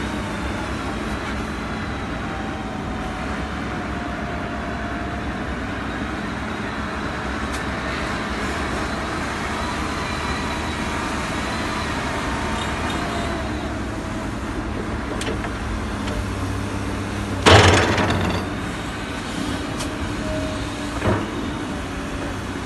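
A 10-ton site dumper's diesel engine running steadily under work, with one loud clattering bang about three quarters of the way through and a smaller knock shortly after.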